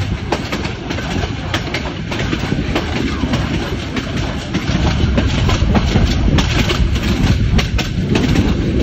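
Passenger train running slowly, heard from a carriage window: a steady rumble of wheels on the track with quick rattling clicks, growing louder about five seconds in.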